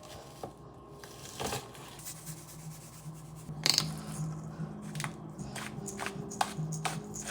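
Kitchen utensils and cookware clinking and knocking at irregular moments, the sharpest knock about four seconds in, over a low steady hum.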